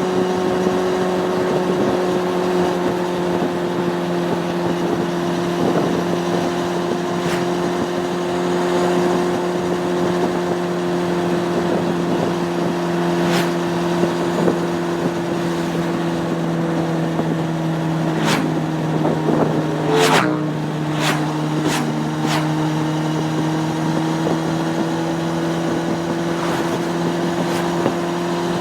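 Honda CB600F Hornet's inline-four engine running at a steady cruising speed, its pitch easing down slightly a little past two-thirds of the way in. A few sharp clicks come in a cluster about two-thirds of the way through.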